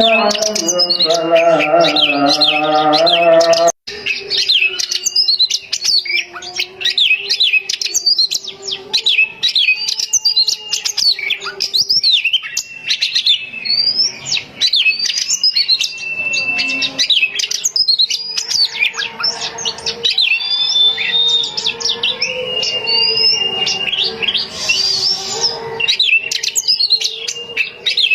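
Oriental magpie-robin (kacer) singing a fast, unbroken song of varied sliding whistles and chirps. A lower, wavering tone sounds under the song for the first few seconds, and the song drops out briefly at about four seconds.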